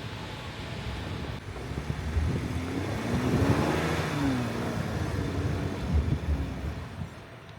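Off-road 4x4's engine revving under load as it tries to push through deep snow. The revs climb, then fall back about halfway through, then the engine settles lower toward the end.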